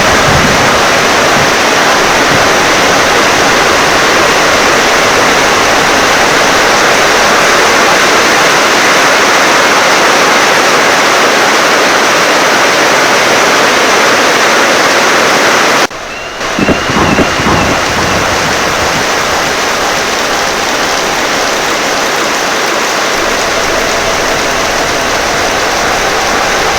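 Heavy rain falling steadily with wind. About two-thirds of the way through the sound cuts abruptly, then a low rumble of thunder follows under the rain.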